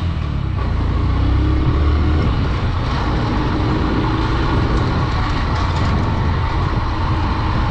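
Honda Dream 110's single-cylinder four-stroke engine running while the motorcycle rides along the road, under a steady, heavy low rumble of wind on the microphone.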